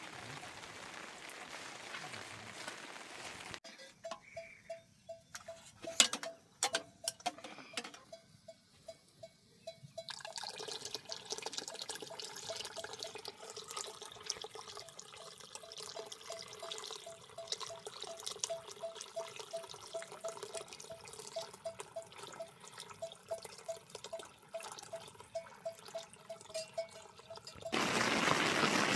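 Water dripping steadily, with sharp ticks and a quick run of repeated plinks. It is framed by the even hiss of heavy rain, which cuts out a few seconds in and returns suddenly near the end.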